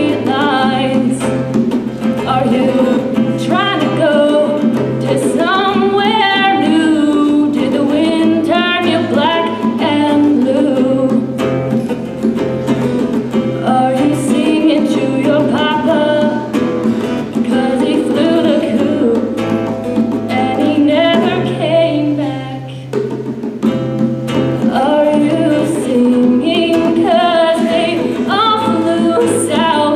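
An original song performed live: singing over a guitar accompaniment, with a brief drop in level a little past the middle.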